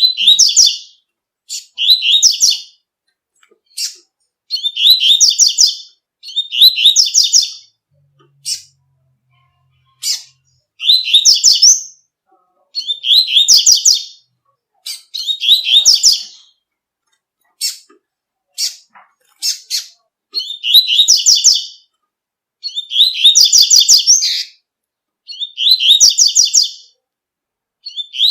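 Double-collared seedeater (coleiro) singing the 'tui-tui' song type: high, quick phrases of repeated notes, each about a second long, given roughly every two seconds, with short sharp single notes in between.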